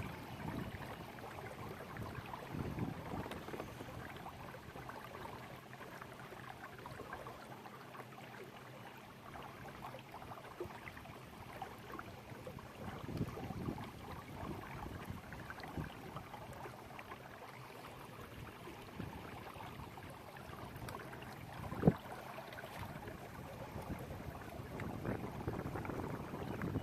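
Water lapping and swishing faintly and unevenly against a kayak hull, with one sharp knock about 22 seconds in.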